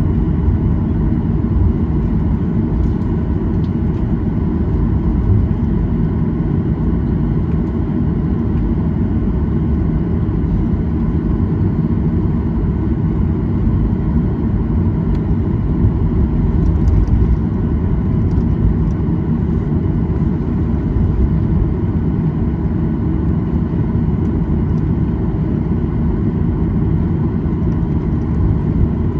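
Steady low cabin rumble of a Boeing 737-800 taxiing after landing, its CFM56-7B engines at idle, heard from inside the passenger cabin, with faint steady tones above the rumble.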